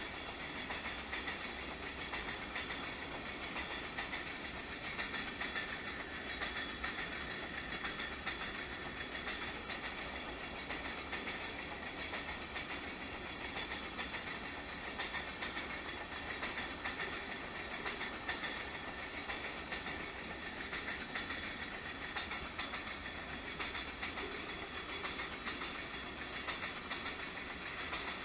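Freight train of hopper cars rolling past steadily, the wheels running over the rail joints.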